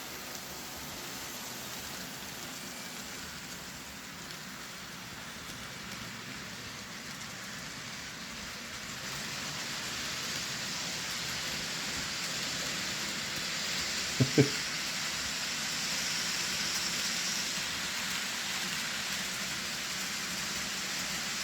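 Kato N scale ES44AC model locomotives running a train on the layout track: a steady whirring hiss of small motors and wheels on rail, growing louder about nine seconds in as the train comes closer. A brief short sound cuts in once about fourteen seconds in.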